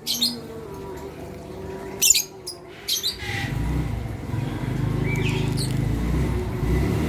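Lovebirds giving short, sharp, high-pitched chirps and squawks, the loudest about two seconds in. From about three seconds in a steady low rumble comes up under a few fainter calls.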